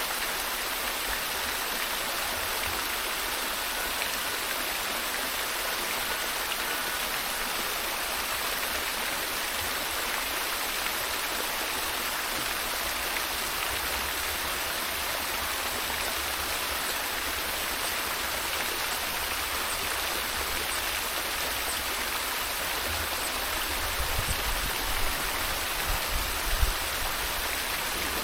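Steady rush of a flowing stream, with a few low thuds near the end.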